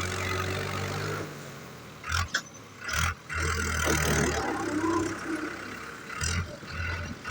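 A tractor engine running steadily, then fading away about a second in, followed by a few short, loud bursts of noise.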